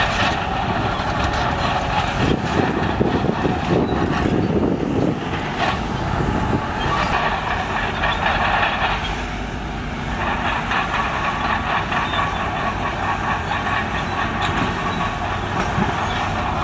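Heavy road-construction machinery running, engines working steadily, with a rougher, noisier stretch from about two to five seconds in and a short lull around ten seconds.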